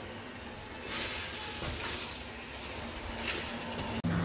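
Chicken livers sizzling in masala in a wide steel pan while a wooden spatula stirs and scrapes through them in a few sweeping strokes; the livers are starting to give off their water. The sound breaks off sharply for an instant near the end.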